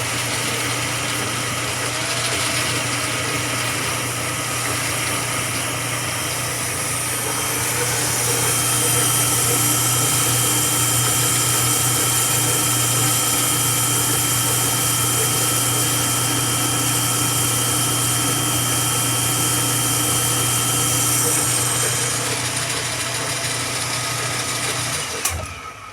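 Metal lathe running, a steady motor hum with several steady whining tones. A louder high hiss comes in about a quarter of the way through and fades near the end, and the sound cuts off suddenly just before the end.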